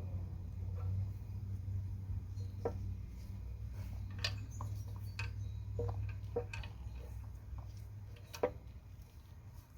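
Scattered metallic clinks and light knocks of tools and parts as the oil tank is worked loose from a 1970 Yamaha AT1B motorcycle, about eight in all at uneven intervals. A steady low hum runs beneath and fades near the end.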